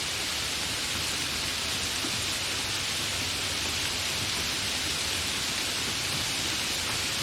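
Steady, fairly heavy rain falling, an even hiss of many drops.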